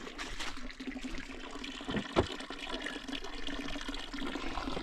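Water running and splashing at a spring, with a sharp knock about two seconds in.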